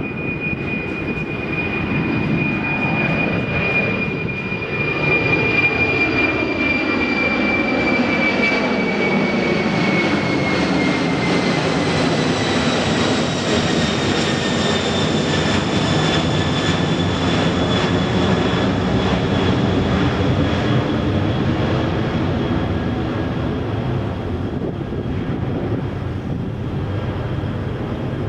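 Jet airliner passing close by. Its engines' high whine drops in pitch about ten seconds in as it goes past, over a loud rushing noise that fades slowly near the end.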